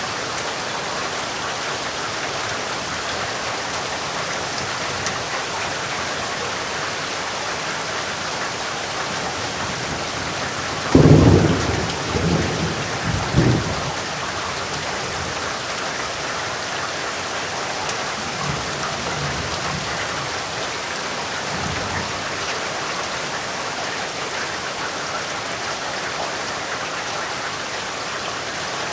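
Steady heavy rain falling, with a sudden loud clap of thunder about eleven seconds in that rolls on in several swells for about three seconds, followed later by fainter, low rumbles of thunder.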